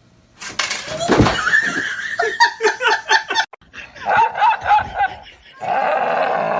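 People laughing, with runs of short rhythmic ha-ha pulses about two seconds in and again about four seconds in.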